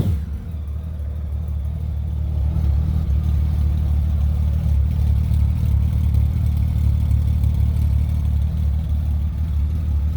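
Honda Valkyrie's flat-six engine idling steadily through custom one-piece truck-stack exhausts with the stock silencers fitted: a pretty good throaty sound, a little louder than stock but not very loud. It settles from a brief rev at the very start into an even, low-pitched idle.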